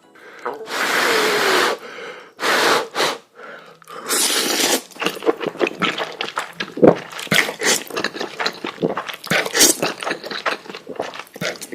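A person eating noodles close to the microphone: three long slurps in the first five seconds, then steady wet chewing with many quick mouth clicks and smacks.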